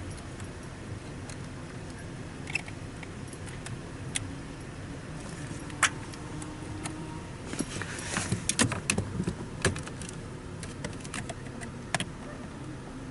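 Scattered sharp clicks and metallic rattles of hand tools and small metal objects being handled, with a busier run of clattering about two thirds of the way through.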